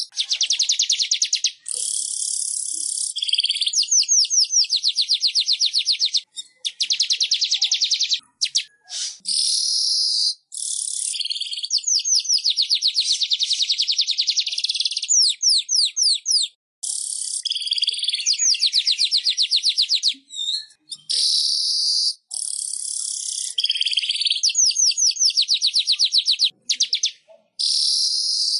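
Weaver bird (manyar) song: long runs of fast, buzzy, high-pitched trills and rattles, each run a second to a few seconds long, broken by short pauses.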